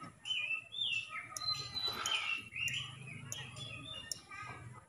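Small birds chirping and twittering, many short quick calls overlapping.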